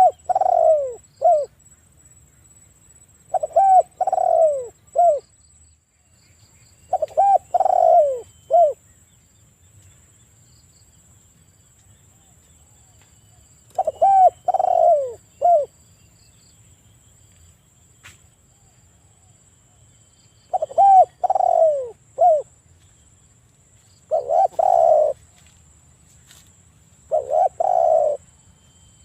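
Spotted dove (tekukur) cooing loudly, a repeated three-note phrase, the first two notes arched and the last one short. It calls seven times, with longer pauses about a third and two thirds of the way through.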